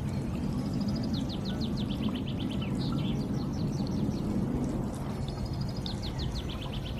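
Songbirds singing in several bursts of quick repeated high notes over a steady low rushing noise.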